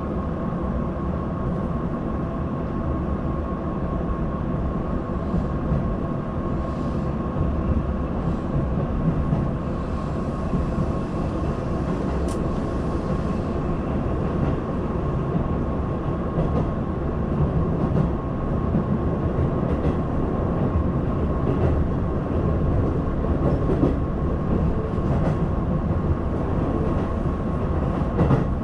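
Keihan limited express train running, heard from inside the passenger car: a steady rumble of wheels on the rails with a constant high hum and a few faint clicks.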